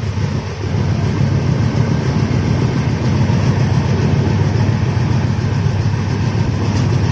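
Golden Temple Mail express train running at speed, heard from inside a coach at the window: a loud, steady low rumble of the coach on the rails, swelling over the first second and then holding level.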